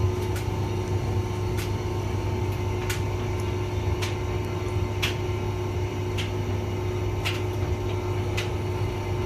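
Hotpoint vented tumble dryer running: a steady motor and drum hum with a few steady tones, and a light click about once a second as the drum turns.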